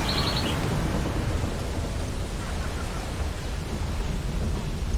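Ocean surf washing on a beach, a steady rushing noise with a deep rumble underneath. Right at the start a bird gives a brief, quick, high twitter of about four notes.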